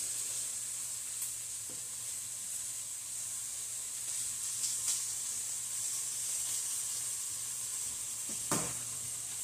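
Steak and poblano peppers sizzling steadily in a frying pan as they are stirred, with a few light clicks of metal tongs against the pan, the sharpest near the end.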